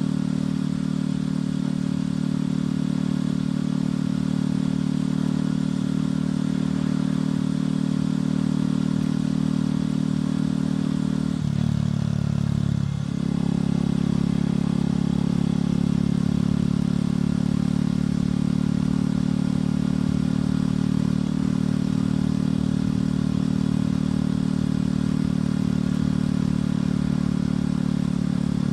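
Motorcycle engine and exhaust running steadily while riding, with a brief change in the engine note and a short dip in loudness about twelve seconds in.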